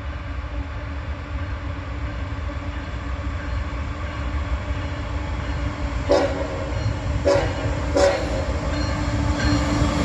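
Coal train's lead diesel locomotives approaching in dynamic braking, a steady low rumble that grows louder. About six seconds in come three short horn blasts.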